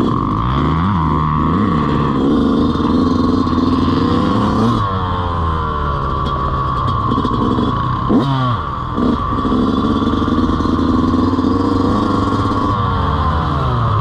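Dirt bike engine running and revving, its pitch holding, then dropping and climbing again as it shifts, with sharp changes about five and eight seconds in.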